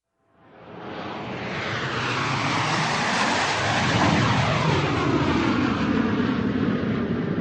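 Airplane flying overhead: its rush of engine noise swells up out of silence within the first second, grows loudest about four seconds in and holds there, with a sweeping change in tone as it passes.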